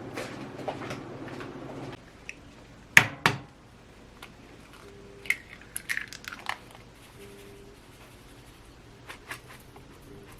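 A steady low hum that stops about two seconds in, then scattered clicks and knocks from things being handled, with light crinkling; the loudest are two sharp knocks close together about three seconds in.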